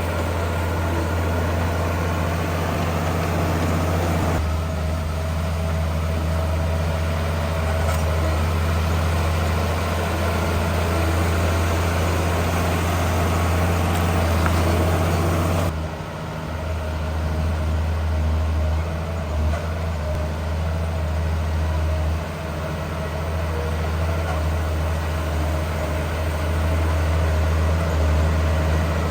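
Heavy diesel engines of earthmoving machinery (a bulldozer and dump trucks spreading and unloading stone) running steadily, with a low hum. The sound shifts abruptly about four seconds in and again about sixteen seconds in.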